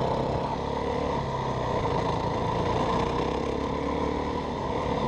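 Yamaha WR450F dirt bike's single-cylinder four-stroke engine running at a fairly steady speed under way, with only slight rises and falls in pitch.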